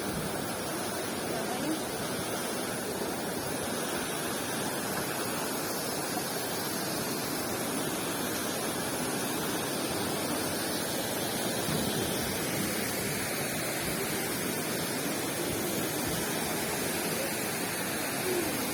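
Steady rush of falling water, like a waterfall, with faint distant voices.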